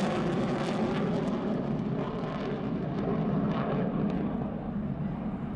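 B-1B Lancer's four General Electric jet engines in afterburner as the bomber pulls up into a steep climb: a steady jet rumble whose high hiss fades away as it recedes.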